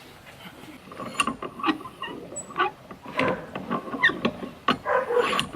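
Plastic lawn edging being cut and worked by hand: irregular snaps, crackles and short squeaks of the plastic, from about a second in.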